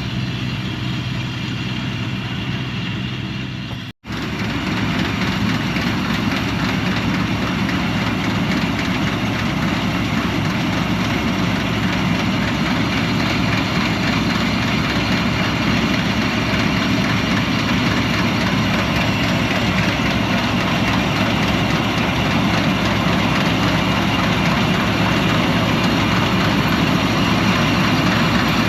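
Combine harvester running steadily. About four seconds in the sound cuts out for an instant and comes back louder and busier.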